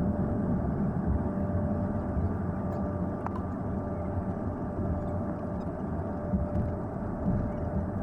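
Steady low rumble of a running vehicle, with a faint steady hum over it.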